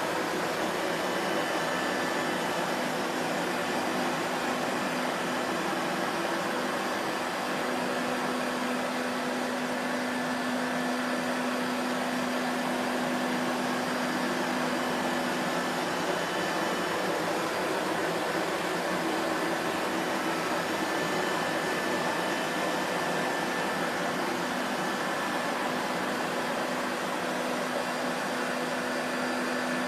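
Vacuum cleaner motor running steadily, a continuous whooshing hum with a faint whine that comes and goes.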